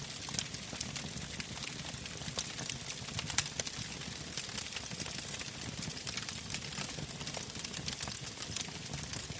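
Wood fire crackling in an open fire pit: frequent small sharp pops, with one loud pop about three and a half seconds in, over a low steady rumble.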